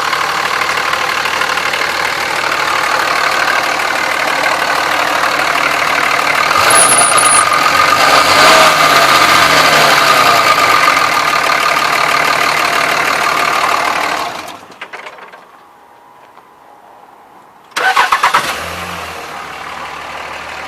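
Dodge Ram 2500's 5.9-litre Cummins inline-six diesel engine running, revving up and back down about eight seconds in. About fourteen seconds in the sound falls away sharply, then a few seconds later comes back suddenly and settles to a steady idle.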